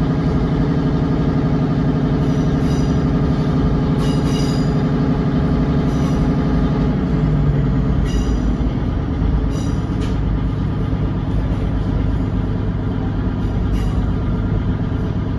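Interior running sound of a British Rail Class 150/1 diesel multiple unit pulling away: its underfloor diesel engine runs steadily under power, and its note drops to a lower pitch about halfway through. Short clicks and rattles from the carriage come through at irregular intervals.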